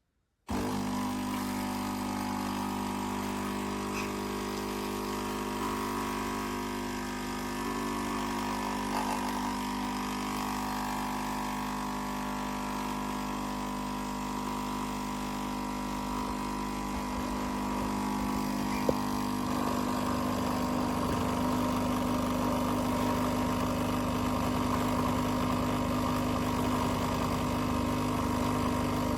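The pump of a KOTLIE AC-513HF capsule coffee machine humming steadily while it brews a coffee. It comes in suddenly, then grows a little louder after a short click about two-thirds of the way through.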